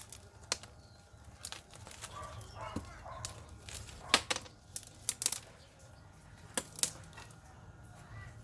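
A series of about eight sharp clicks and knocks, irregularly spaced, from hands handling potted ferns and their containers.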